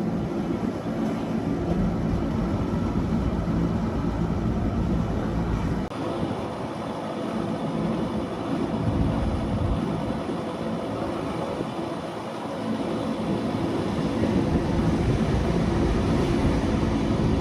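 Wengernalpbahn rack-railway train running downhill, a continuous low rumble of wheels and running gear with a faint steady hum.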